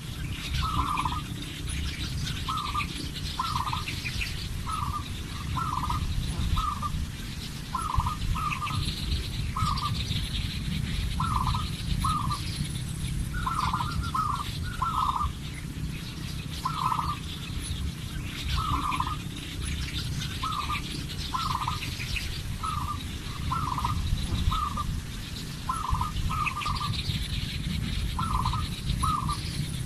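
An animal calling over and over in short notes, singly or in quick pairs and triples about once a second, over a steady low rumble.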